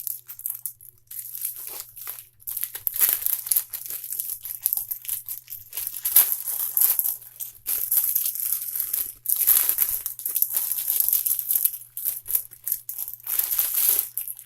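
Packaging crinkling and rustling in irregular bursts as hands rummage through a box and pull items out, with a faint steady electrical hum underneath.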